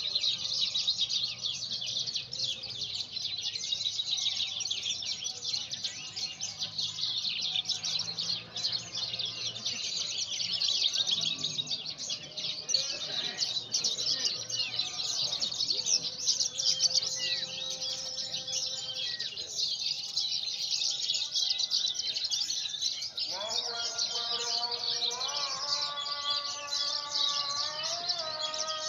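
Javan bush lark (branjangan) singing a rapid, unbroken stream of high chirps and trills. About two-thirds of the way through, a lower pitched sound of several steady tones joins in and rises in pitch twice.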